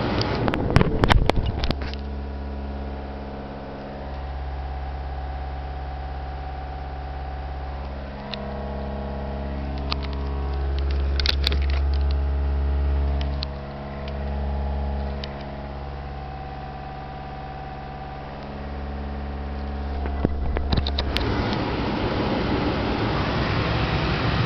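Opel Astra 2.0 DI turbodiesel (X20DTL) running, heard from inside the cabin: a steady hum of several even tones whose low end swells and dips. There are clicks near the start and again near the end, after which a broad rushing noise covers the hum.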